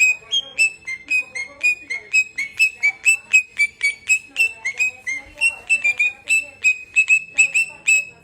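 Pet parrot whistling a long run of short, sharp notes, about three or four a second.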